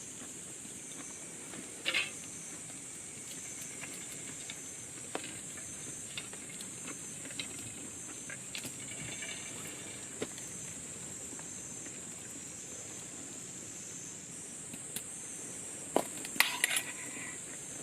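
Campfire cooking sounds: scattered small clicks and a few sharper metallic clinks of cookware or utensils, about two seconds in and again near the end, over a steady high-pitched hiss.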